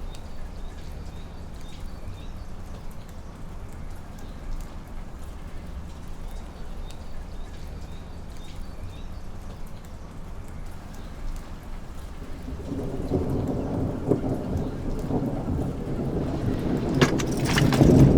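Steady rain with fine pattering drops; about twelve seconds in, a low rumble of thunder builds, growing louder with sharp crackles near the end.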